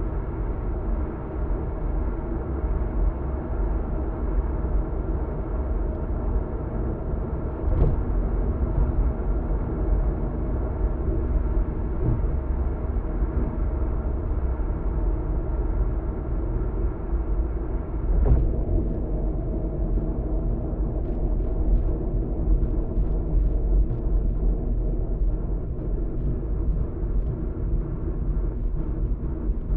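Steady road and tyre noise with engine hum inside a moving car's cabin at highway speed, with a thump about 8 seconds in and another about 18 seconds in.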